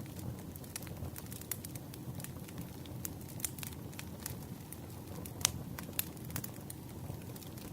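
Wood campfire burning: a steady low rumble of flames with frequent irregular crackles and pops, the sharpest pop about five and a half seconds in.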